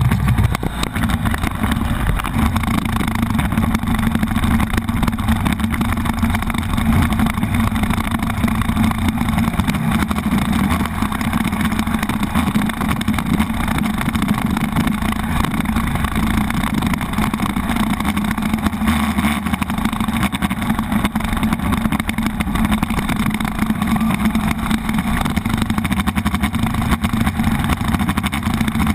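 Buell XB9SX motorcycle's V-twin engine running steadily while riding, heard from the bike itself.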